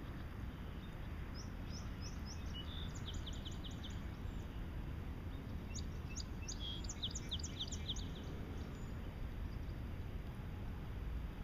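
A small songbird singing two quick runs of short, high, downward-sweeping notes, the first about a second and a half in and the second around six seconds in, over a steady low outdoor rumble.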